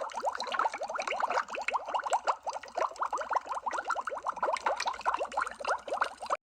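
Underwater bubble sound effect: a continuous stream of bubbles, many quick blips each rising in pitch, cutting out briefly near the end.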